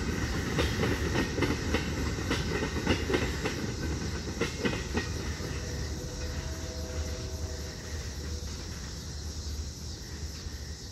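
Freight train tank cars rolling past, their steel wheels clicking over rail joints, the clicking and rumble fading away after about five seconds as the last cars clear.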